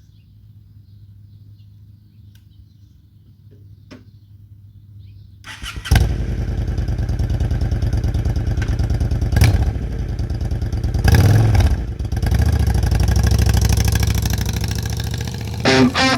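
2007 Honda Shadow Aero's V-twin engine starting about six seconds in, then running with a couple of short revs. Music comes in right at the end.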